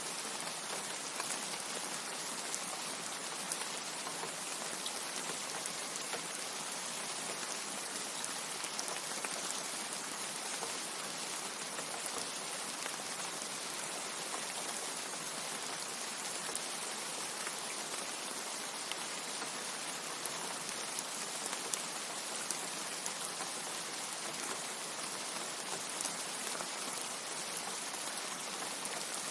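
Steady heavy rain: a dense, even hiss with many scattered sharp drop ticks.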